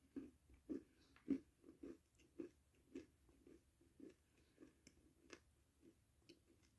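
Close-up chewing of food, about two chews a second. The strongest, crunchy chews come in the first second and a half, then they turn softer.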